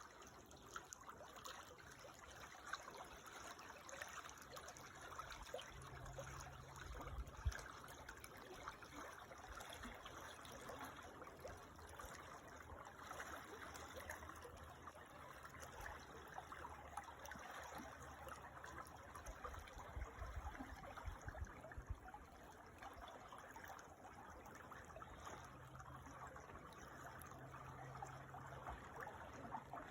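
Creek water trickling and burbling steadily over stones, faint, with a low rumble underneath at times.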